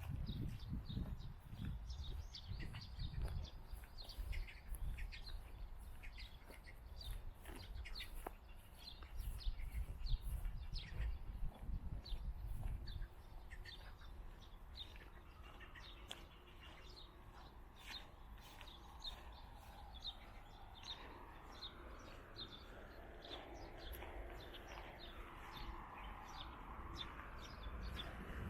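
Small birds chirping again and again, the short calls scattered across the whole stretch. A low rumble sits under the first half, and a broad steady hum swells in over the second half.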